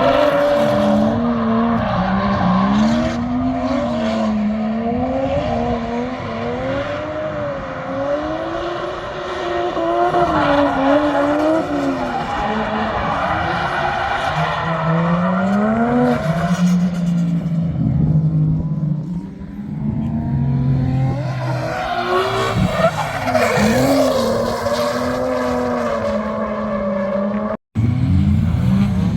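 Drift car engine revving up and down, its pitch rising and falling every second or two, with tyres squealing as it slides. A brief dropout near the end, followed by a steadier engine note.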